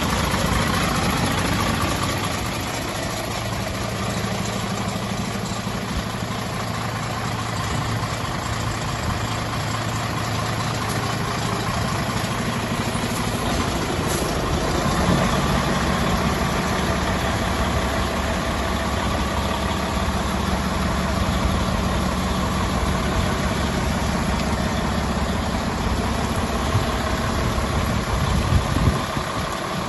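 Mercedes-Benz Actros 3235 truck's diesel engine idling steadily, its note shifting slightly about halfway through.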